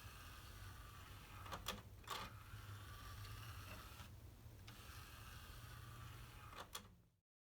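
CD tray mechanism of a Bose PLS-1410 with a newly fitted rubber drive belt, giving a few sharp mechanical clicks about a second and a half to two seconds in and once more near the end, over a steady low hum.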